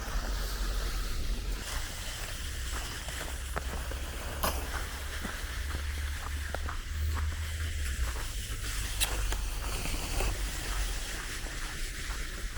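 Steady low rumble with a faint outdoor hiss, broken by a few scattered sharp clicks, the clearest about four and a half and nine seconds in.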